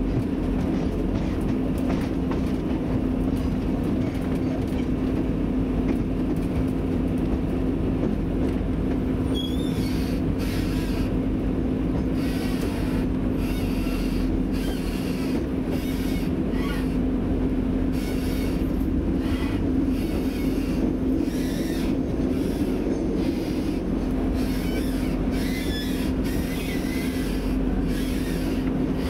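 Class 175 diesel multiple unit running, heard from inside the carriage: a steady drone and low rumble from its Cummins diesel engine and running gear. From about ten seconds in the wheels clatter repeatedly over the track and give short, high squeals.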